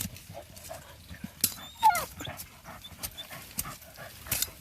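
Dogs digging and scratching at a burrow, with scattered scrapes and clicks of dirt, and a short falling whine from a dog about two seconds in.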